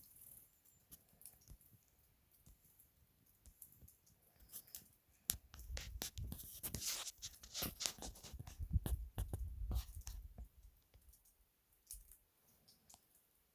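Close rustling and scattered light clicks and scratches, busiest in the middle few seconds, with low bumps beneath them.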